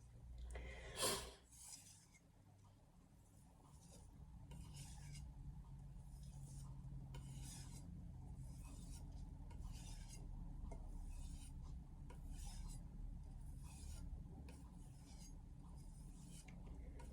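A Santoku knife blade stroked back and forth on a 2-micron strop, a soft rhythmic scraping about once a second, the final polishing of the edge.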